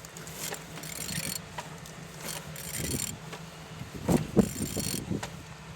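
A used engine being turned over by hand with a wrench: three rasping, ratcheting pulls with metallic clatter, and a couple of sharper knocks near the end. The engine turns freely.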